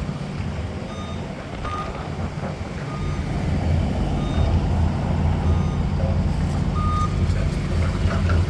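Reversing alarm on a construction-site vehicle beeping repeatedly, a short tone every second or so, over the steady low running of its engine.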